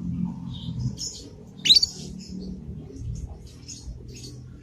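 Young canary's learning song: scattered soft twittering chirps with one loud, sharp rising chirp about one and a half seconds in, over a low background rumble.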